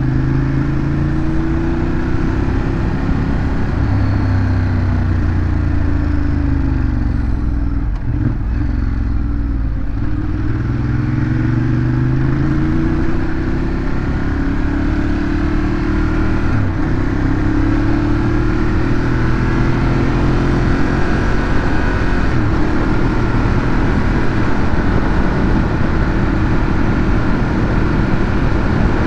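Ducati Monster 821's 821 cc L-twin engine running through its stock exhaust while riding. The engine note rises and falls again and again as the bike accelerates, shifts and slows, dropping lowest about a third of the way through.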